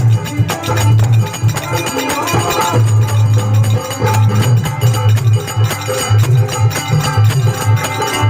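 Rajasthani folk devotional bhajan music: dholak drumming in a steady rhythm with deep bass strokes, under a melody.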